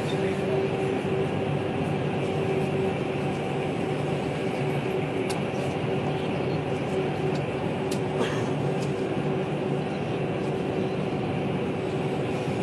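Steady running noise of a vehicle, with a constant hum and a few faint clicks.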